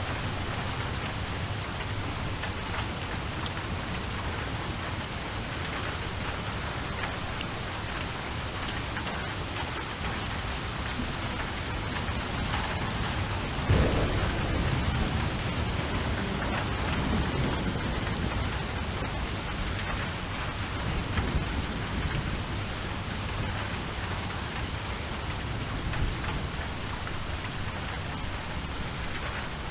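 Steady rainfall with an even hiss of drops. About halfway through, a roll of thunder starts suddenly, rumbles low and fades over several seconds.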